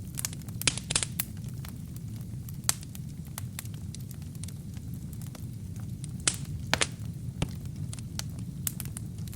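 Wood fire burning in a fireplace: a steady low rumble with frequent sharp crackles and pops, a few of them loud, about a second in, near three seconds and a pair past six seconds.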